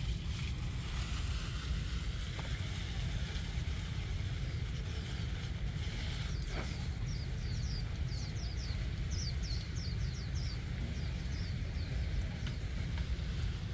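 A steady low rumble, with a bird calling a quick run of short, high, falling notes about halfway through.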